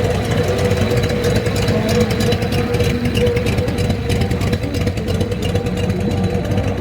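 Hot rod car engine idling with a steady, rapid run of exhaust pulses.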